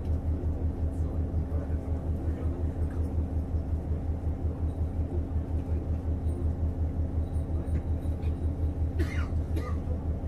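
Inside a JR Hokkaido KiHa 150 diesel railcar: the diesel engine's low throb pulsing evenly, about five or six beats a second, over a steady hum. A few short clicks come near the end.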